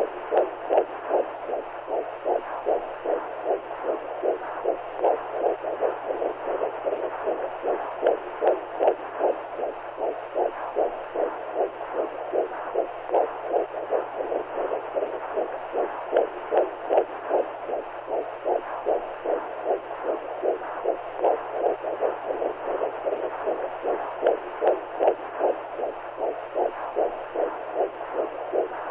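Womb sound for soothing newborns: rapid, rhythmic whooshing pulses like a heartbeat heard through the body, over a constant muffled hiss and a steady low hum.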